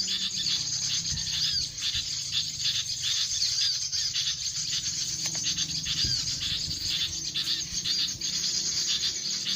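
A bird's short arched chirp repeating about once every second or so over a steady, dense insect chorus.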